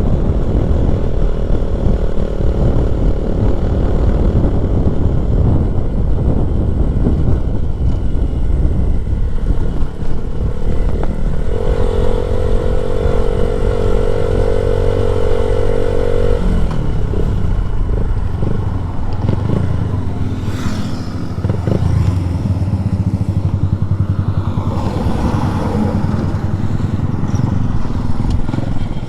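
Motorcycle engine running under way, with heavy wind noise on the microphone. A steady pitched tone is held for about five seconds near the middle.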